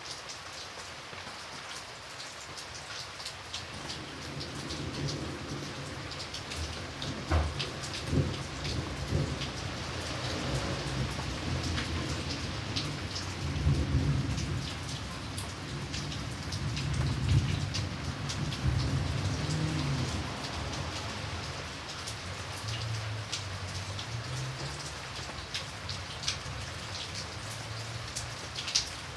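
Steady rain with individual drops tapping sharply. A long, low rumble of thunder builds a few seconds in, is loudest around the middle, and dies away near the end.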